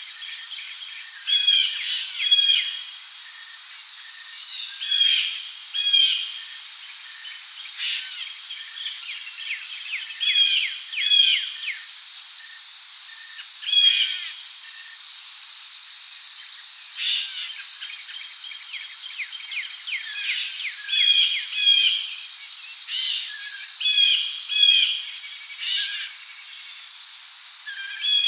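Tropical rainforest ambience: a steady high drone of crickets and other insects, with birds calling in short repeated chirping phrases every second or two.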